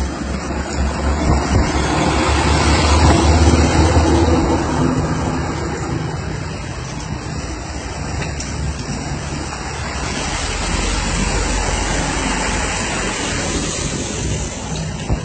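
Heavy rain pouring down in a steady, dense hiss, with a low hum that swells in the first few seconds and then eases.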